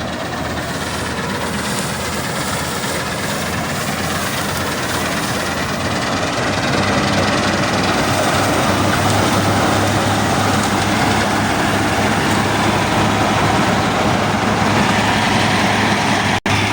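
New Holland combine harvester running, its engine and machinery making a loud, steady noise that grows louder about six seconds in.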